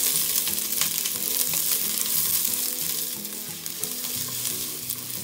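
Diced onion and garlic sizzling and crackling in hot oil in an enamel pot as they are sautéed. A plastic spatula stirs and scrapes through them against the pot.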